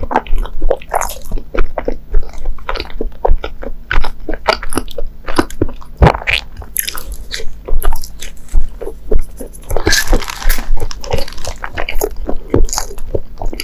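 Close-miked chewing of a soft mochi sweet: rapid mouth clicks and smacks in quick succession, with a longer noisy stretch about ten seconds in.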